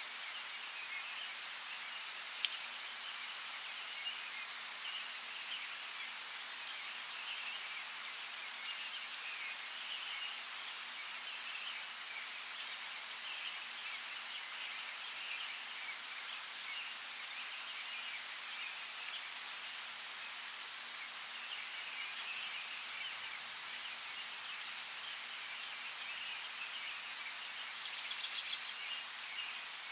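Steady patter of light rain with birds chirping throughout and a few sharper drop ticks. Near the end a bird gives a quick burst of several loud chirps.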